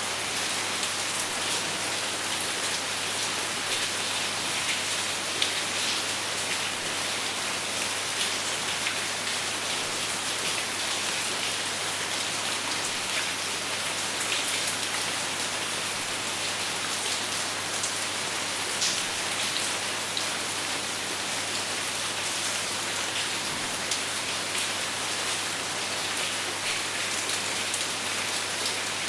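Steady rain falling without thunder: an even hiss of rain on a surface, with scattered louder drops ticking through it.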